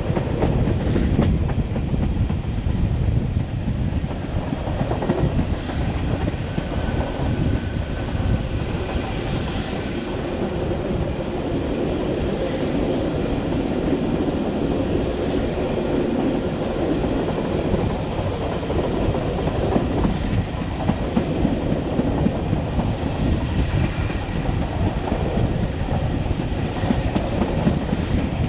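Metre-gauge Matterhorn Gotthard Bahn regional train, hauled by an HGe 4/4 electric locomotive, heard from aboard while running: a steady rumble of wheels on the track, with a few clicks over rail joints.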